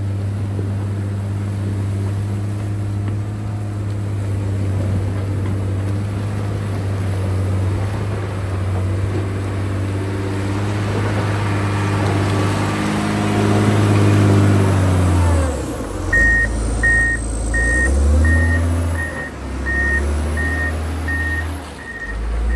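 John Deere 670 motor grader's diesel engine running steadily, then revving higher before dropping off. About two-thirds of the way in its reversing alarm starts, beeping about twice a second while the engine note rises and falls.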